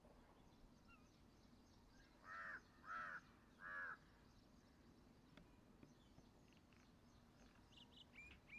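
A bird calls three times in quick succession, each call short and under half a second, then faint short chirps come near the end.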